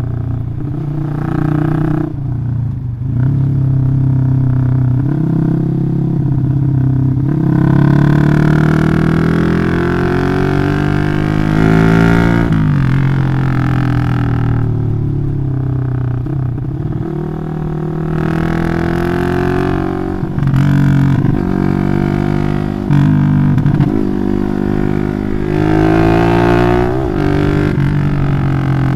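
Loud engine of a Yamaha Jupiter MX bored up to 180cc, running through a Requsan aftermarket exhaust, its pitch climbing and falling back several times.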